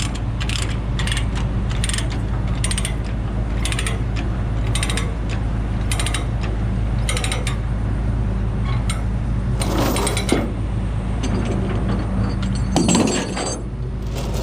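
Ratchet chain binder being cranked to tension a tie-down chain, its pawl clicking with each stroke of the handle for the first several seconds. Louder metal rattles follow about ten and thirteen seconds in, over a steady engine hum.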